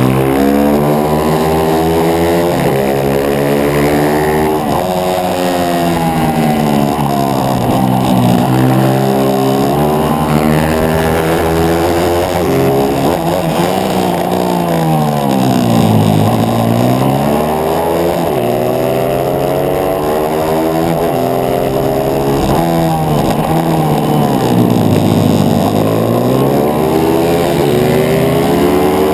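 On-board sound of a 140cc single-cylinder four-stroke pit bike engine at race pace, revving up through the gears and dropping back repeatedly. The revs fall low twice, about halfway and again near the end, then climb again.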